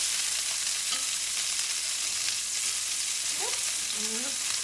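Turkey meatballs sizzling in oil in a stainless steel skillet, a steady frying hiss, as they are turned over with a spatula.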